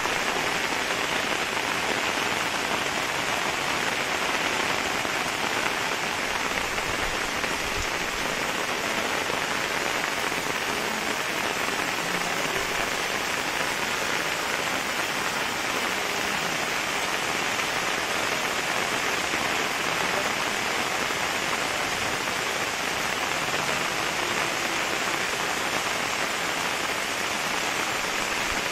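Steady rain falling on a flooded street, an even hiss that holds without a break.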